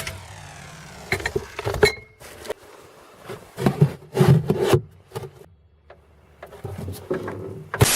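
A run of irregular knocks and scraping, with denser clatter about a second in and again around four seconds in.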